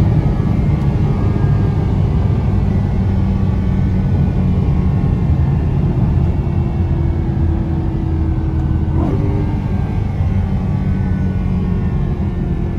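BMW E93 M3's V8 engine running as the car drives, a steady low drone with road noise.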